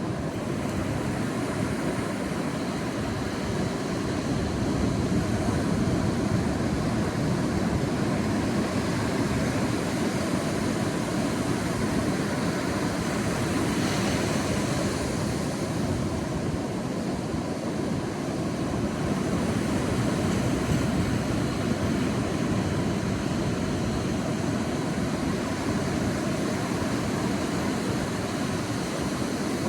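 Sea surf on a beach: a continuous low rush of waves that swells and eases, with one wave breaking more brightly about halfway through.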